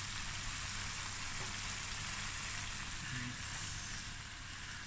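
Spice paste of garlic, ginger and masala frying in a stainless steel pan, a gentle, steady sizzle.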